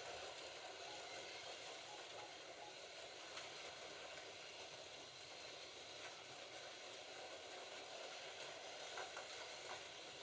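Slot cars running around the track: a faint, steady whirr of their small electric motors and tyres on the plastic track, with a few faint clicks.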